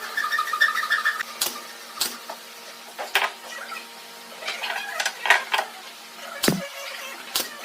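A series of separate hard knocks and clicks, like tools or pieces of wood being set down and handled, with a pulsing buzz in the first second.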